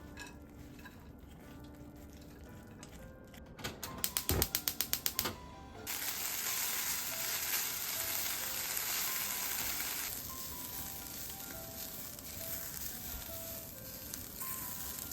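About a dozen quick clicks in a row, then food sizzling in a hot frying pan. The sizzle is loudest at first and settles a few seconds later, with soft background music under it.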